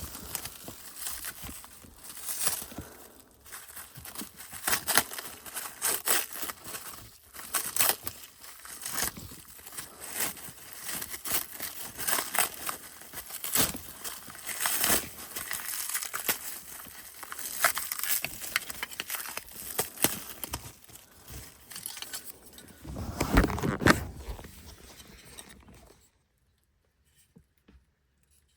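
Cellophane plastic wrap being crinkled and torn off a packaged part, an irregular crackling and rustling with a denser burst late on, cutting off suddenly near the end.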